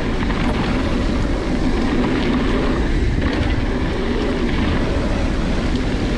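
Wind buffeting the microphone and mountain bike tyres rolling fast over a dirt trail: a steady, loud rushing rumble.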